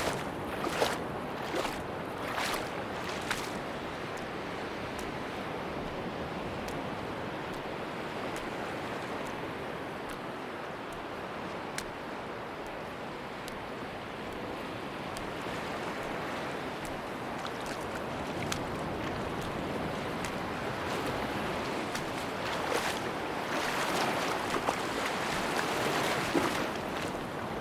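Ocean surf washing onto a beach: a steady rush of waves that swells louder near the end, with scattered sharp crackles near the start and the end.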